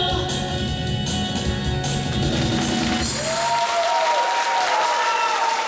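A pop band with drum kit plays the final bars of a song, the drums and bass stopping about three and a half seconds in. Audience applause swells over the last held note.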